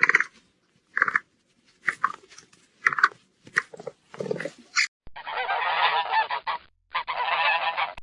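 Geese honking: a run of short, separate honks, then from about five seconds in two longer stretches of many overlapping honks, as from a flock.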